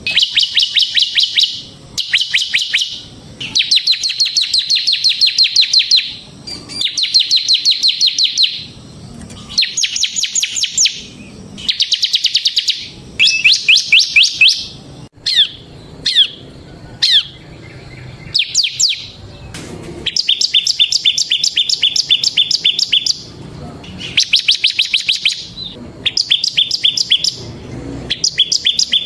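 Ciblek semi, a prinia, singing in rapid buzzing trills. Each burst of fast repeated high notes lasts one to two seconds, with short gaps between bursts, and a few single down-slurred notes come about halfway through.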